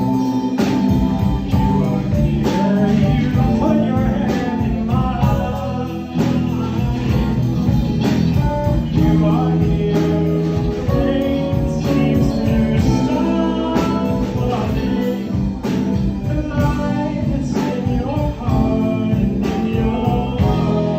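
Live band playing an instrumental passage: electric guitar over keys, bass and a drum kit keeping a steady beat.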